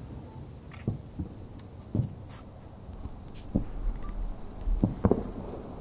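Distant fireworks shells bursting: about six dull booms at irregular intervals over a low rumble, two coming close together near the end.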